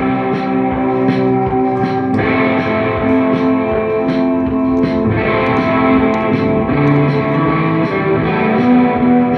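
Music: an amplified guitar with effects playing sustained chords, over a steady beat.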